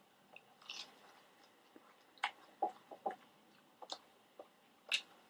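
Close-miked eating noises from pretzel-crust pizza: a dozen or so short, crisp clicks and crackles of mouth and food handling, scattered irregularly, the loudest a few seconds in.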